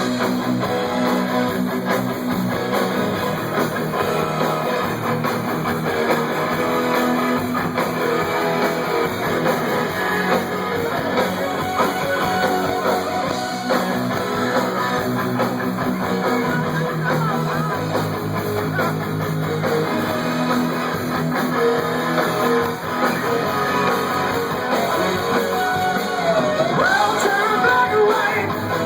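Rock music from a band, with strummed guitar prominent.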